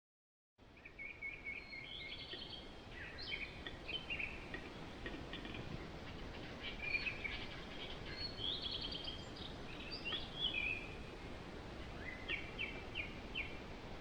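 Several wild birds chirping and singing, with short trills and quick repeated notes, over a steady low background rumble. The sound begins abruptly about half a second in.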